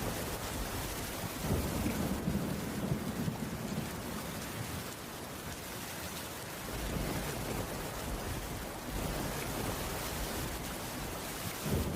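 Heavy rain falling steadily, an even hiss. A low rumble swells up about a second and a half in and fades by about four seconds.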